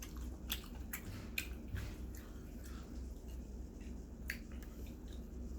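Chewing and biting on roasted chicken: scattered wet smacks and short clicks, with a low steady hum underneath.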